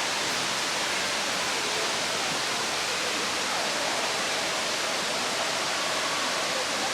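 Steady, even rush of water, with no break or change in level.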